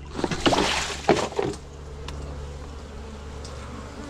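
Honey bees buzzing around an open beehive, with a quick cluster of knocks and scraping from hive handling in the first second and a half.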